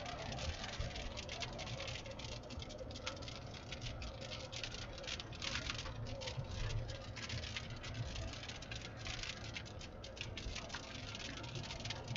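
Raindrops pattering irregularly on the roof and windshield of a moving car, over the steady low rumble of the vehicle on the road.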